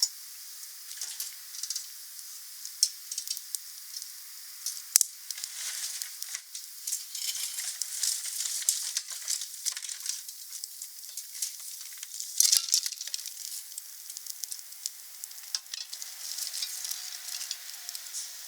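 Wood campfire crackling and hissing, with frequent sharp pops; the loudest pops come about five seconds in and again about twelve seconds in.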